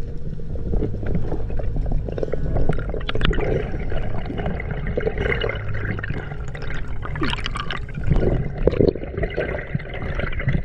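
Water splashing and gurgling right against the microphone, irregular and unsteady, with a steady low drone underneath.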